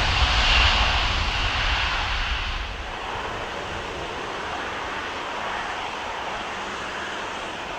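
Jet airliner engines passing close by: a loud roar with deep rumble that fades over the first three seconds, then settles into a steadier, quieter rushing sound.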